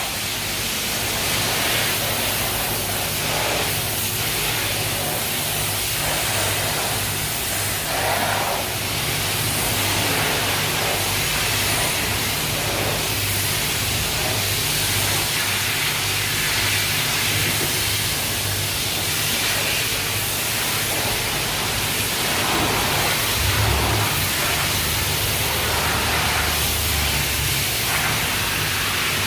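High-pressure water spraying from a self-service car wash wand, a steady hiss with a low hum underneath.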